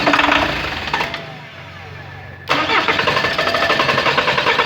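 Starter motor cranking a Peugeot 407's 2.0 HDi diesel engine in two attempts: a short crank of about a second, then a longer steady crank from about two and a half seconds in. The car carries fault code P0337, a crankshaft position sensor fault.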